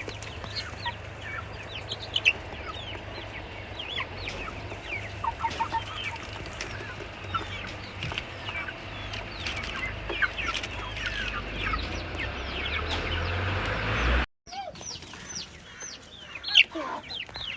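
A flock of chickens clucking and peeping, many short high calls overlapping, over a low steady rumble that stops abruptly about fourteen seconds in.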